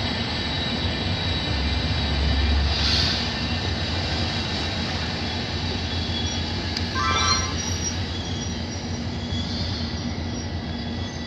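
Train hauled by an FS E.402 electric locomotive running on the track, a steady rumble with high wheel squeal over it. There is a brief sharper screech about seven seconds in, and the sound gets gradually quieter near the end.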